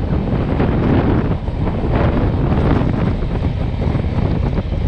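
Wind buffeting the microphone over the steady running noise of a moving passenger train, heard from aboard the train.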